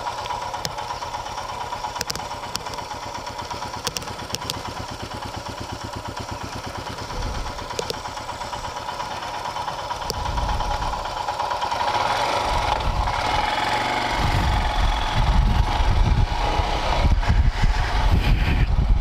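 Royal Enfield Himalayan's 411 cc single-cylinder engine running while being ridden, steady at first and getting louder in the second half with more low rumble.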